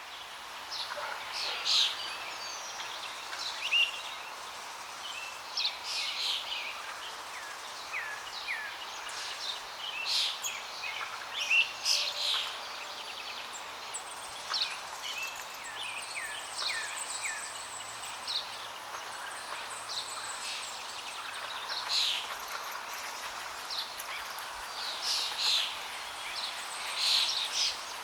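Several birds chirping and calling in quick, short notes over the steady rush of flowing water.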